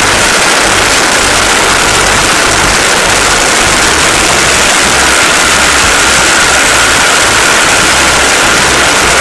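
MWfly B25L aircraft engine and propeller running hard under test: a loud, steady noise with a faint held tone above it and an uneven low pulsing underneath.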